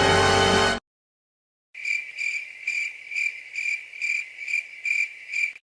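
Cricket chirping sound effect, the stock 'awkward silence' gag: a steady high chirp pulsing a little over twice a second for about four seconds, starting after a music clip cuts off just under a second in.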